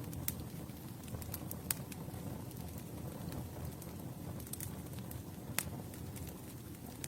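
Campfire burning: a steady low rumble of flames with scattered sharp crackles and pops of burning wood, three of them louder than the rest.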